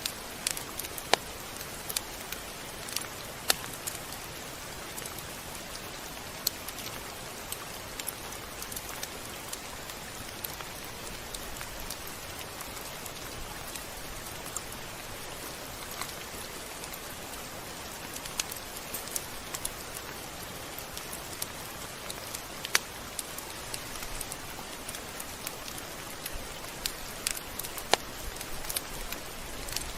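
Steady rain: an even hiss with irregular sharp drops ticking on a hard surface.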